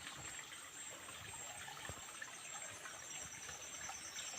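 Faint, steady trickle of a small forest stream, with insects buzzing in a high, steady tone that pulses in the second half.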